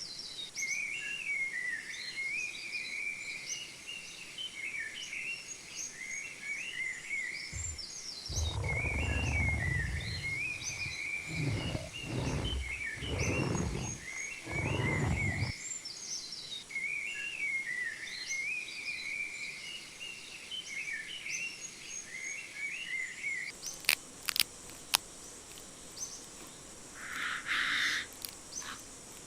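Rainforest ambience: many birds chirping and warbling without a break over a steady high insect hiss. Several low rumbles come in the middle, and a few sharp clicks near the end.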